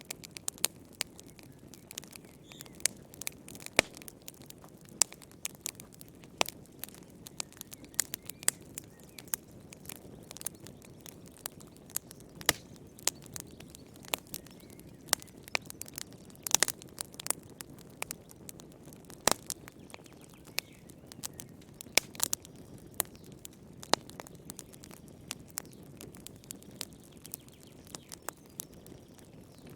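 Fire crackling in a fireplace: irregular sharp pops and snaps, several a second, some louder than the rest, over a soft low rush of the burning.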